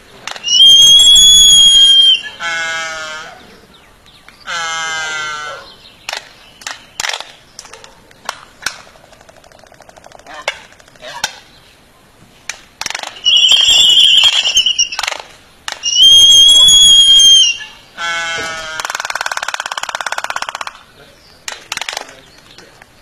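Birds calling back and forth: loud, clear whistled notes of about a second and a half, alternating with harsher squawks that fall in pitch, scattered clicks and a buzzy call. The same run of calls comes round again about halfway through.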